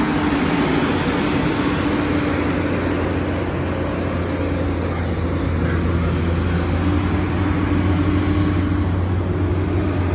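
Tractor diesel engine running steadily under load, a continuous low drone.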